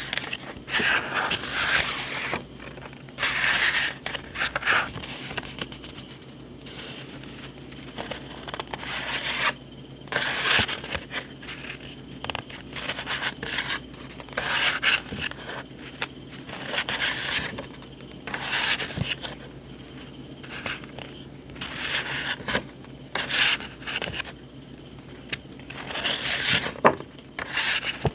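Journaling paper and ephemera being handled, sheets rubbing and sliding against each other in irregular strokes.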